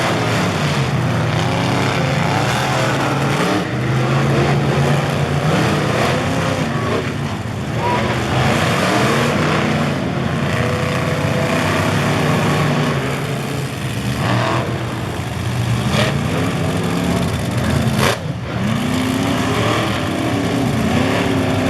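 Monster truck engines running loud and revving, their pitch climbing and falling again and again, with two sharp cracks toward the end.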